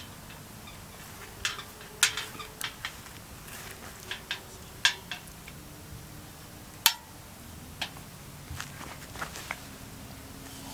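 Irregular sharp clicks and knocks, some ringing briefly, about fifteen in all, with the loudest near two and seven seconds in.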